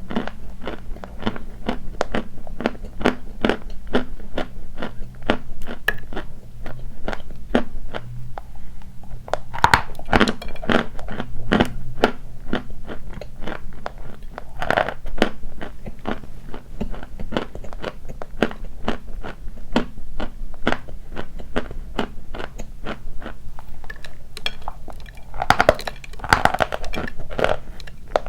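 Dry white chalk being bitten and chewed close to the microphone: a steady run of sharp, dry crunches, with a few louder bites about ten, fifteen and twenty-six seconds in.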